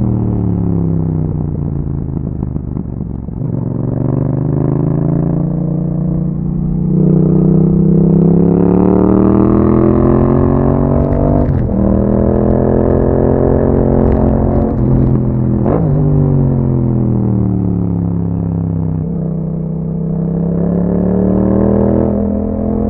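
2021 Yamaha MT-07's 689 cc parallel-twin engine through an Akrapovic exhaust with dB killer, running on the road. Engine speed falls off, climbs and holds, with short breaks at gear changes about 11 and 16 seconds in, then drops and picks up again near the end.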